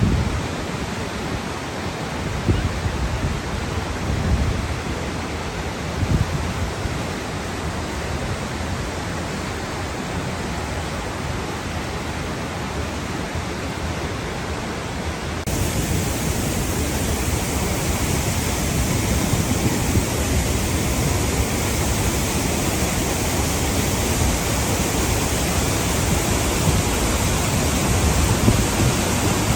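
Waterfall rushing as a steady roar of water. About halfway through, the sound changes abruptly to a brighter, hissier and slightly louder rush.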